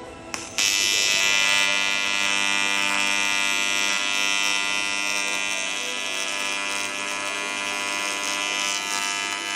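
Welding arc buzzing steadily, switching on abruptly about half a second in.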